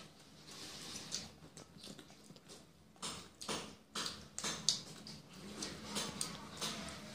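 People biting into and chewing crisp fried pakoras: irregular short crunches, louder and more frequent from about three seconds in.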